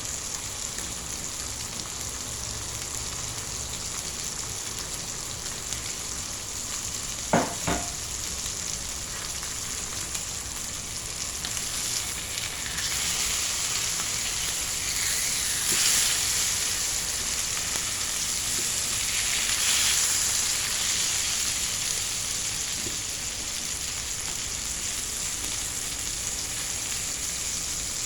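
Chicken fillet frying in a pan, sizzling steadily, growing louder around the middle and again later. Two sharp knocks sound about seven seconds in.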